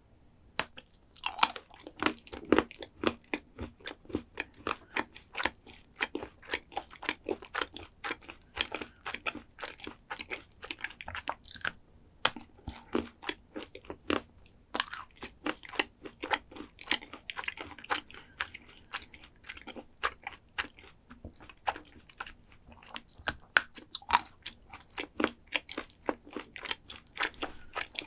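Close-up eating sounds: a person biting and chewing a crunchy chocolate dessert, with many irregular sharp crunches and wet chewing clicks.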